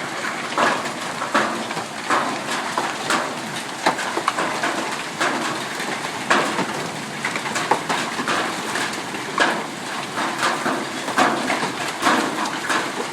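Hail and heavy rain falling: a steady hiss of rain with many irregular sharp clicks and knocks of hailstones striking hard surfaces.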